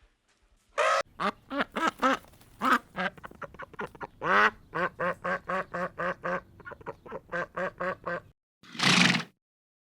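Ducks quacking: a long run of short quacks, about three a second in the later part, then one louder call near the end.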